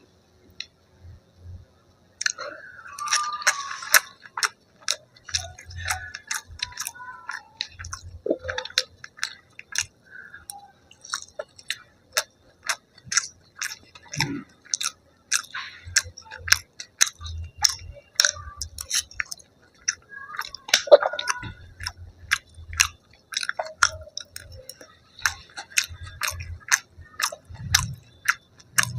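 Close-miked chewing of crispy fried chilli potato: a dense run of sharp crunches and wet mouth sounds, beginning about two seconds in.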